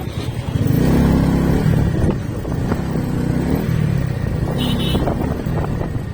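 Motorcycle engine running while riding, growing louder about half a second in and rising and falling with the throttle. A brief high beep sounds about two-thirds of the way through.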